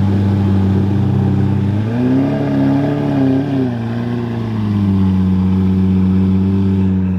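A car engine rumbling at low revs as the car rolls by, with a short rise in revs about two seconds in that then falls back to a steady rumble.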